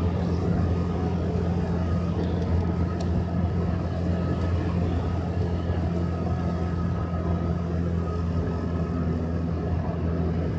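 Motorcycle engine running at a steady speed while riding, with a constant low hum and road noise.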